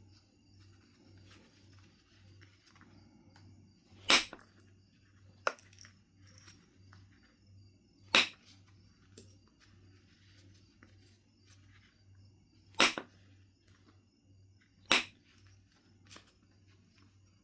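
Knife River Flint being knapped: sharp clinking strikes on the stone, irregularly spaced a second to a few seconds apart, five loud and two fainter, as flakes are driven off. A low steady hum sits underneath.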